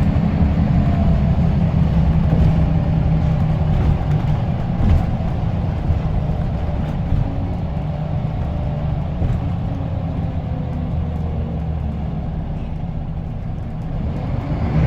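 Scania L94UB bus's diesel engine running, with a faint turbo whistle that slowly drifts down in pitch as the engine eases off towards the end.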